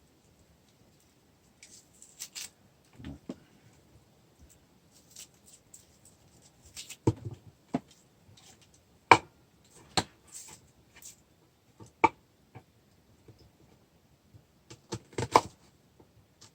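Knife cutting an onion by hand, a few slow, irregular cuts with sharp knocks of the blade against the cutting surface, the loudest about halfway through and near the end.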